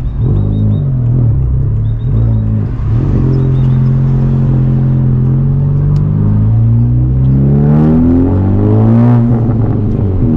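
Turbocharged 2.0-litre four-cylinder of a Honda Civic Type R with a catless downpipe and resonator delete, pulling in gear. The engine note holds steady, rises over about three seconds, then drops near the end as the gear changes.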